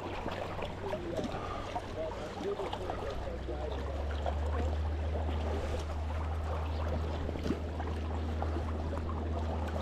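Steady rush of flowing river water with a low rumble that grows stronger about three seconds in, and faint distant voices.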